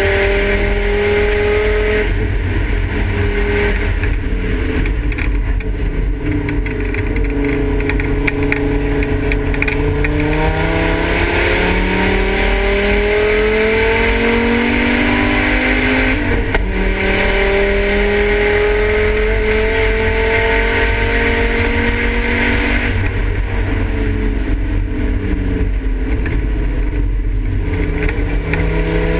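Volvo 850 race car's five-cylinder engine pulling hard, heard from inside the stripped cabin: the revs climb in long pulls, drop sharply about halfway through as at a gear change, climb again, then ease off for the last few seconds.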